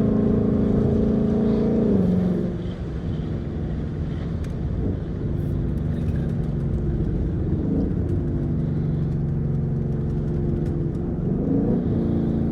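2015 Ford Mustang GT's 5.0-liter V8 running at steady revs, dropping to lower revs about two seconds in, holding there with a couple of short blips, then climbing again near the end.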